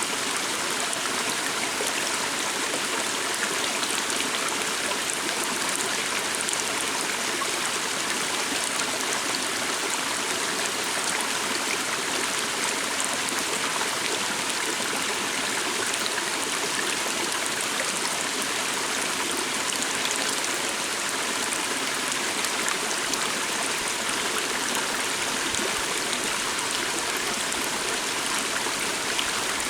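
Water stream flowing steadily, an even rushing sound with no change in level.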